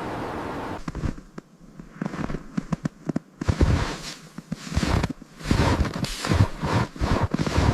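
Steady rushing noise that cuts off abruptly just under a second in, followed by a run of irregular sharp crackles and short crunching bursts.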